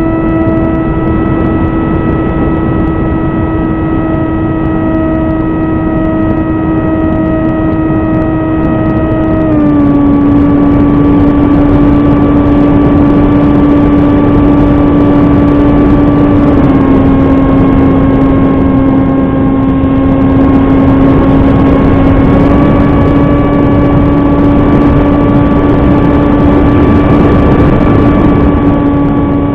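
Small electric RC plane's brushless motor and propeller whining steadily in flight over loud wind rush, the pitch stepping down twice and back up once as the throttle is changed.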